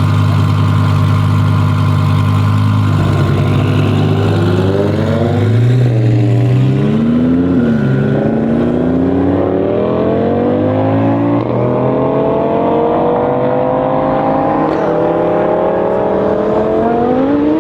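Twin-turbo Audi R8 V10 Plus's V10 engine at steady revs, then under full throttle, its pitch climbing through the gears with three quick upshifts.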